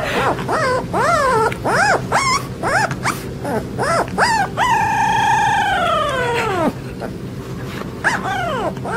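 A dog howling and whining in a string of short calls that rise and fall in pitch, with one long drawn-out howl of about two seconds in the middle before more short calls.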